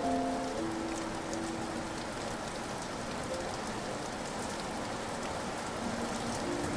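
Steady rain falling in an even patter, with a few soft piano notes fading out near the start and starting again near the end.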